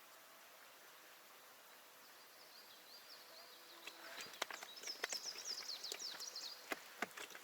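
A small songbird singing: a fast run of high, quick down-sweeping notes that grows louder and stops about six and a half seconds in. Sharp clicks and knocks come in from about four seconds on.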